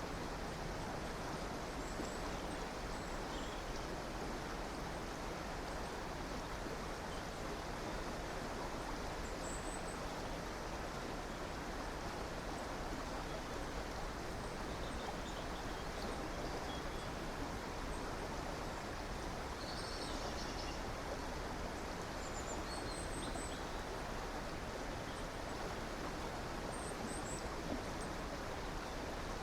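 A river or stream flowing steadily, with scattered short, high bird chirps over the water, a few of them about twenty seconds in.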